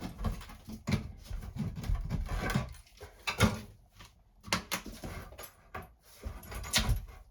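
A screwdriver prying a piece of the sink vanity loose: irregular scraping and creaking with several sharp knocks.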